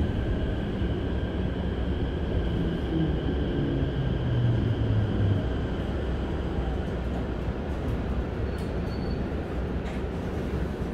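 Interior running sound of a Keikyu 1000 series electric train car, with a Mitsubishi full-SiC VVVF inverter, pulling slowly into a station: low wheel-and-rail rumble with inverter tones falling in pitch as the train brakes, fading out about five and a half seconds in as it comes to a stop.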